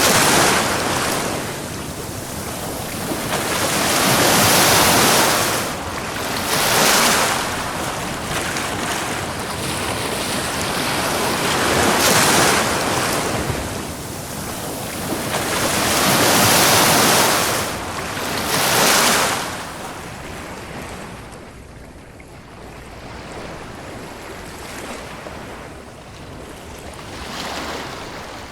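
Ocean waves breaking and washing up a beach, each surge swelling and falling away every few seconds. The surf calms and grows quieter in the last third.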